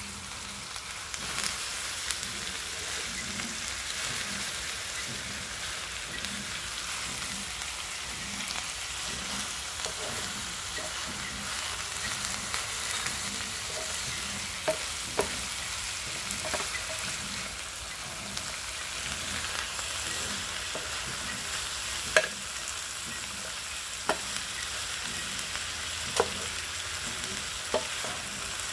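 Minced pork and green vegetables sizzling in a hot enamel pan, stirred with a wooden spatula, with a steady hiss and a few short knocks as the spatula strikes the pan.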